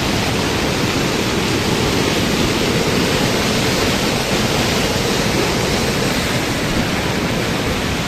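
Floodwater rushing in a swollen stream, a loud, steady, unbroken roar of water.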